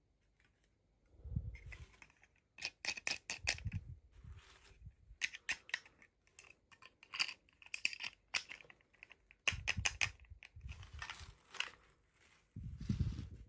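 Hands opening toy packaging: irregular clicks and crackles, with a few soft thumps as the package is handled and set down.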